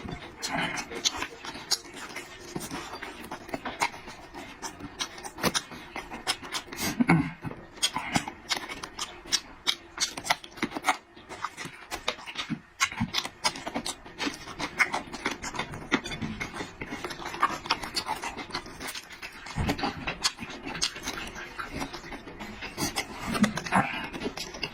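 A person eating close to the microphone: wet chewing and lip-smacking, with many quick irregular mouth clicks.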